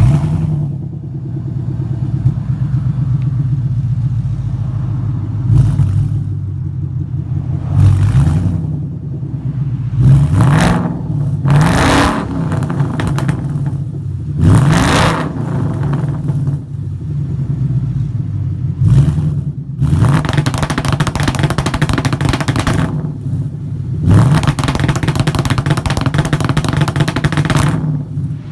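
Ford Mustang GT's 5.0-litre V8 running through a freshly fitted MBRP race-series catback exhaust, idling and revved repeatedly with short throttle blips, then two longer, louder revs in the second half.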